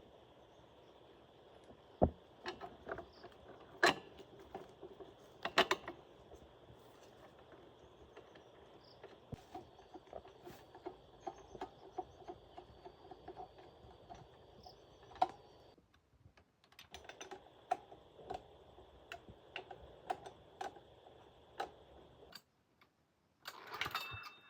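Scattered sharp clicks and knocks, a few louder ones standing out, over a steady high insect drone that drops out twice.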